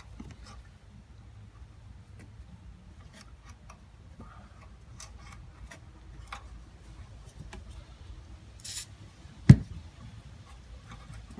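Scattered light clicks and ticks of hand tools being handled on metal, with one sharp knock about nine and a half seconds in.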